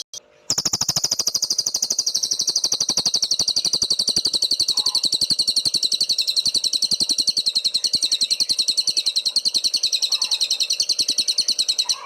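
Cililin songbird singing one long, fast, even trill of about a dozen sharp notes a second, kept up without a break for some eleven seconds.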